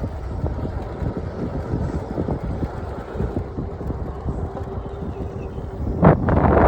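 Wind buffeting the microphone on a moving e-bike, a steady low rumble with irregular flutter, rising into a louder rush of noise near the end.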